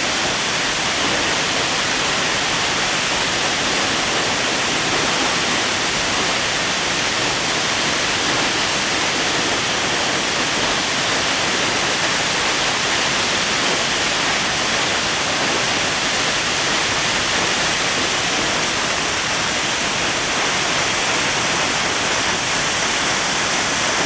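Waterfall: a loud, steady rush of falling water that holds even and unbroken throughout.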